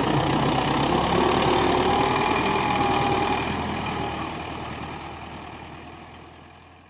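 Diesel tractor engine idling steadily, then fading out over the last three seconds or so.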